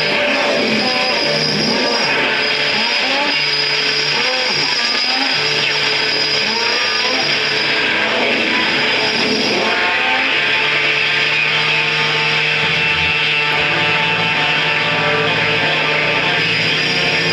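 Live noise-music performance: a loud, dense, unbroken wall of distorted sound with a steady low drone and a high whine. Sliding pitched tones in the first half settle into steadier held tones after about ten seconds.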